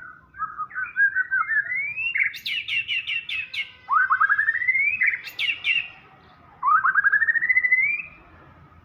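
White-rumped shama (murai batu) singing loudly: several fast runs of repeated notes that each climb steadily in pitch, broken by sharp high notes, stopping about a second before the end.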